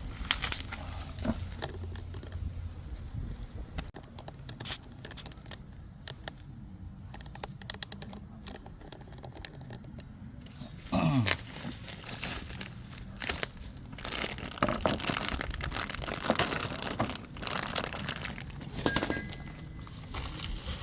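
Plastic packaging crinkling and tearing with irregular crackles as new wheel bearing parts are unwrapped.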